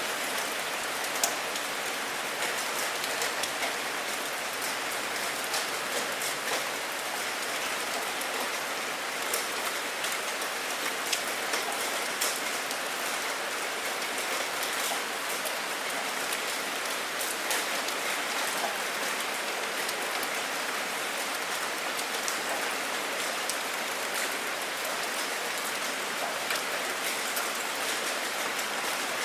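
Steady rain falling, a constant hiss with many individual drops ticking and pattering on a hard surface.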